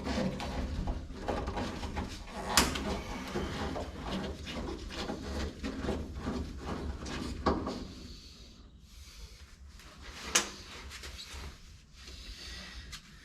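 Screw being backed out of the vent window assembly in a car door: a run of small metal clicks and scrapes from the screwdriver and parts, with sharper knocks about two and a half, seven and a half and ten seconds in, growing quieter after about eight seconds.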